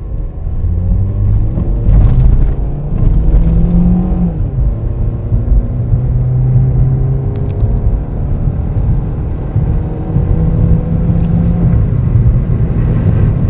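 Nissan Versa's 1.8-litre four-cylinder engine under hard acceleration from a stop, heard from inside the cabin. The engine note rises in pitch, drops back sharply about four seconds in, then keeps pulling with steady road rumble as the car climbs toward 60 mph.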